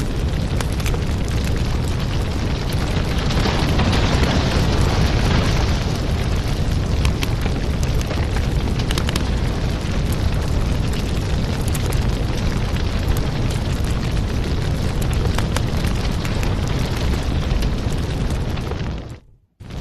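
Wood fire in a fireplace crackling steadily over a low rumbling hiss. It cuts out for a moment near the end, then carries on.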